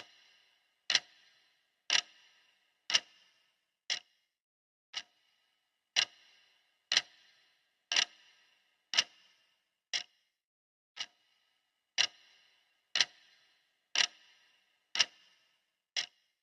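Clock ticking once a second, each tick a sharp click with a short ring, some ticks louder than others.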